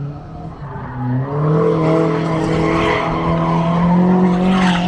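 Car engine revving up about a second in and held at high revs while drifting, with tyre squeal.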